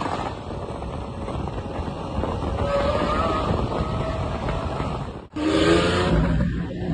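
Lamborghini supercar engine running, growing louder over the first three seconds, with wind on the microphone. The sound cuts off abruptly about five seconds in and a new stretch of engine sound begins.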